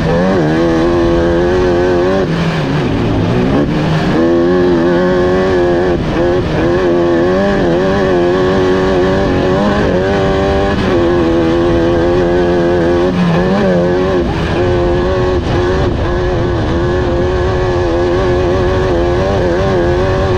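Off-road race car engine running hard and loud, its pitch rising and falling continuously as the throttle is worked. About three seconds in, the revs drop sharply and then climb back.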